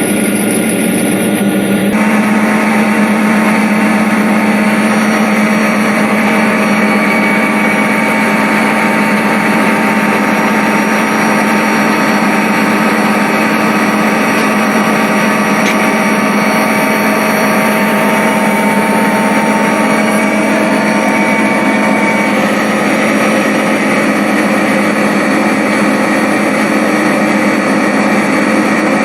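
Diesel locomotive engine running steadily, its tone shifting about two seconds in and again about twenty-two seconds in.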